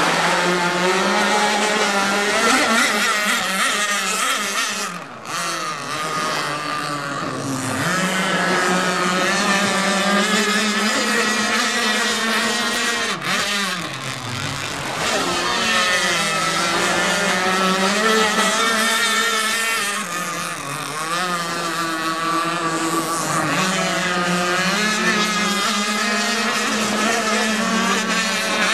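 Twin Zenoah G26PUM 26 cc two-stroke gas engines of a large RC speedboat running hard at high revs. Three times the pitch drops briefly and climbs back up as the throttle is eased off and reopened.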